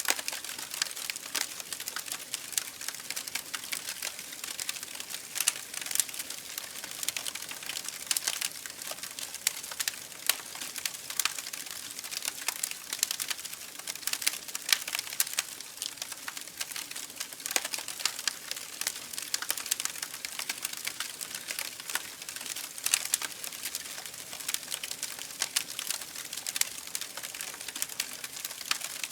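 Campfire crackling: dense, irregular pops and snaps from burning wood over a soft hiss, with an occasional louder pop.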